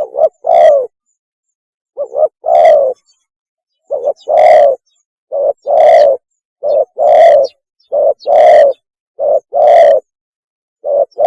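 Spotted dove cooing its mating call in repeated two-note phrases, a short note followed at once by a longer, louder one, about eight times at intervals of a second or two. The call is loud.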